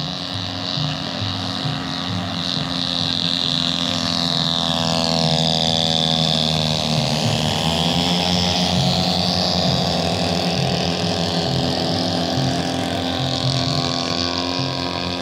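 Radio-controlled model Cessna airplane engine running steadily. Its pitch falls and then rises again about halfway through.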